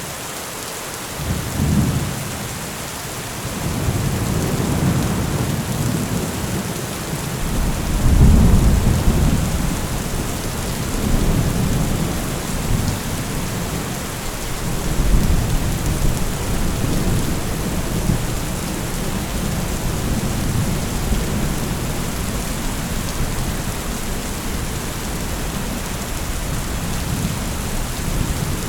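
Steady rain falling with rolling thunder; several low rumbles swell and fade, the loudest about eight seconds in.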